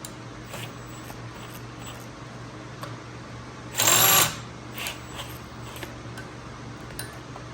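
Handheld electric drill run in one short burst about four seconds in, over a steady low electrical hum with faint clicks and taps.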